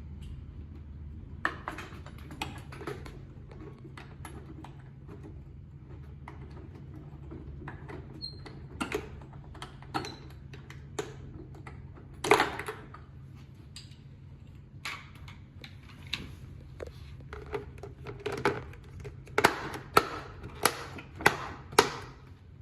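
Irregular clicks and knocks of small parts and hand tools being handled during a motor swap, ending in a quick run of about five knocks, over a steady low hum.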